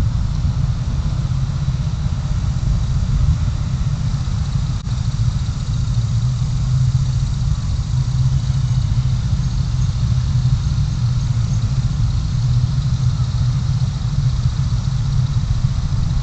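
Steady low drone of a car's engine and road noise, picked up by a dashboard camera inside the car.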